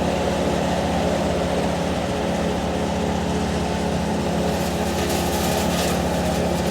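Vehicle engine running steadily with a low hum, with a short rush of hiss about five seconds in.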